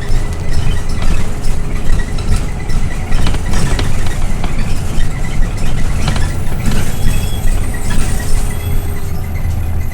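Scania OmniLink I city bus heard from inside while driving: a steady low engine and road drone, with scattered short rattles and knocks from the body and fittings.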